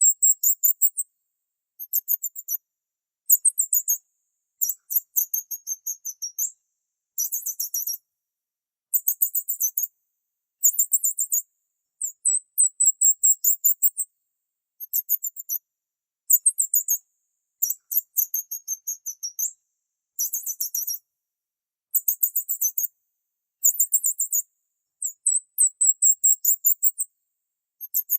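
Small bird chirping in repeated bursts of rapid, very high-pitched notes, each burst lasting about half a second to a second, with short silent gaps between them.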